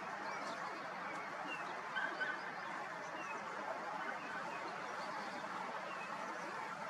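Open-air background: a steady hiss with faint, scattered short bird chirps every second or two, and a slightly louder pair of chirps about two seconds in.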